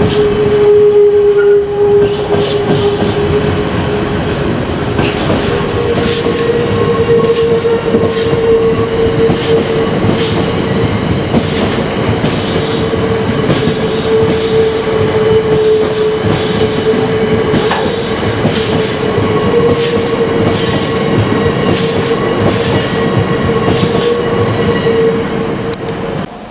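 A train passing close by, its wheels clattering over rail joints about once a second over a steady whine. The sound drops off sharply near the end.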